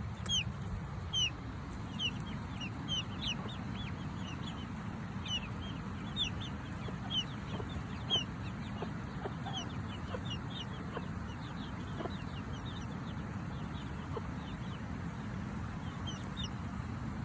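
Young chicks peeping: many short, high cheeps that fall in pitch, coming thick and fast for the first ten seconds or so and then more sparsely, with a hen clucking low now and then. A steady low rumbling noise runs underneath.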